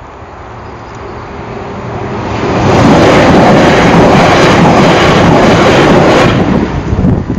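South Western Railway electric multiple unit passing over the level crossing at speed. A rush of wheels on rail builds over the first three seconds, stays loud for about three seconds as the carriages go by, then drops away sharply.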